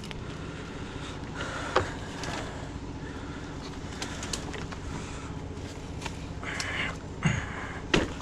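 A steady engine hum, with a few sharp knocks and clatters on top, the loudest about two seconds in and just before the end.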